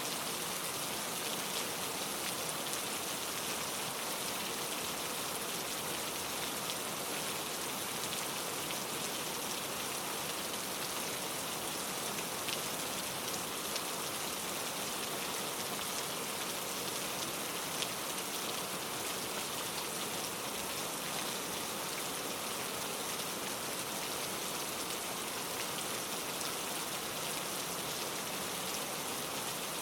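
Steady rainfall, a dense hiss of drops falling on surfaces with a few individual drops ticking out here and there.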